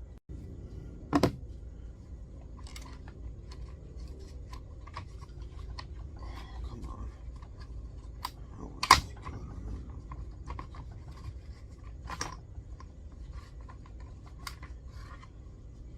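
Hands working on tools and parts: scattered small clicks, scrapes and rustling, with two sharp knocks, one about a second in and a louder one just past halfway.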